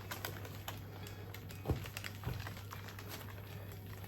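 Baking paper being peeled off a freshly baked sponge cake: faint crinkling and small ticks, with two soft knocks about halfway through.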